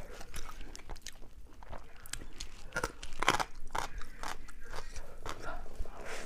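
A person chewing food close to the microphone: a run of irregular small clicks and crunches from the mouth.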